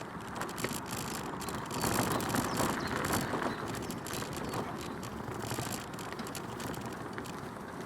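Bicycle riding along a track, heard from a recorder mounted on the bike: steady tyre and road noise with a continual light rattle from the bike whose source the rider cannot locate, a little louder between about two and three and a half seconds in.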